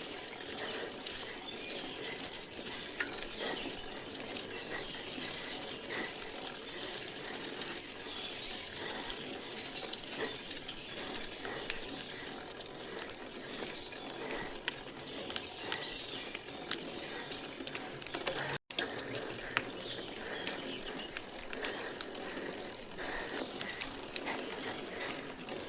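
Riding a vintage steel bicycle on a rainforest road: a steady hiss of tyres and passing air with frequent light ticks and rattles from the bike, and faint bird calls now and then.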